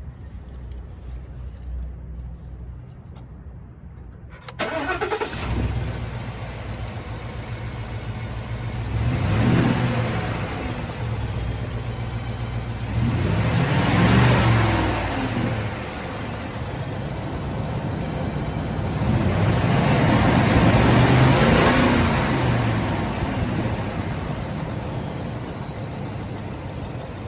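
Ford F350 pickup engine starting, catching suddenly about four and a half seconds in, then idling and revved three times, each rev rising and falling back to idle.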